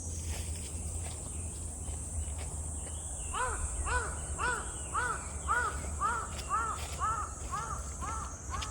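A crow cawing in a quick, even series of about eleven caws, roughly two a second, starting a few seconds in. Under it runs a steady high hiss of insects.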